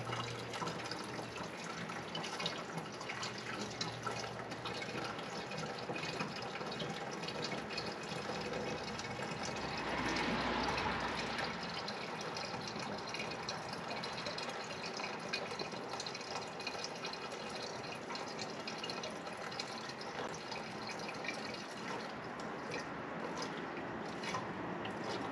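Windshield washer fluid being poured from a jug into the reservoir, a steady trickling fill that swells briefly about ten seconds in.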